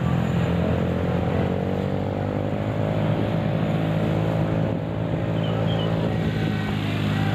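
Motor vehicle engines running steadily, with a slow change in engine pitch partway through.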